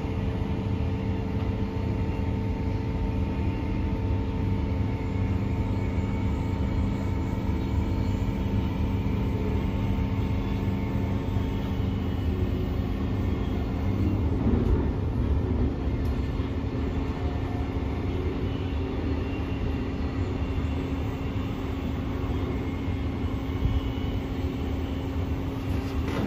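Queensland Rail NGR 700 series electric multiple unit heard from inside the carriage while running between stations: a continuous rumble from the wheels and running gear on the track, with a steady hum of several tones over it. A few of those tones drop out about halfway through.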